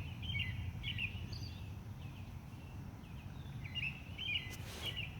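Small birds chirping off and on in short, high calls over a steady low background rumble.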